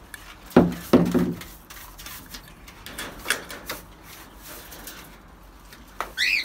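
Handling noises: two loud knocks about half a second apart near the start, then scattered light clicks and scrapes. Near the end, a pet bird gives one short squawk that rises and falls in pitch.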